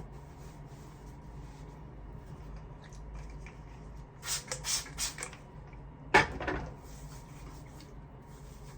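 Kitchen handling sounds over a low steady hum: a few short clatters about four to five seconds in, then a sharper knock a little after six seconds.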